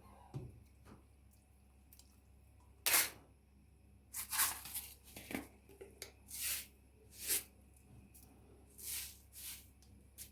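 Kitchen handling sounds: a series of about eight short, sharp noisy strokes at irregular intervals, the loudest about three seconds in.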